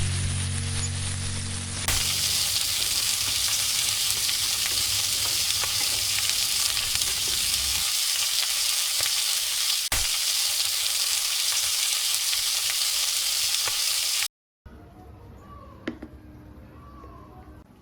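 Food sizzling in hot oil in a pan: a steady hiss with fine crackles. Music fades out under it in the first two seconds, and the sizzling cuts off suddenly near the end, leaving a much quieter stretch with a single knock.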